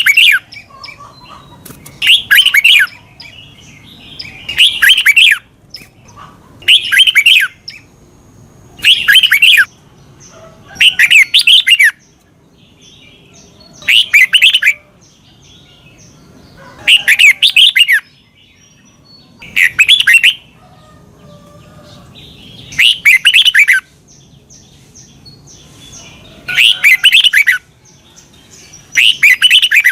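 Red-whiskered bulbul singing short, warbling phrases of quick up-and-down notes, one phrase every two to three seconds, about a dozen in all.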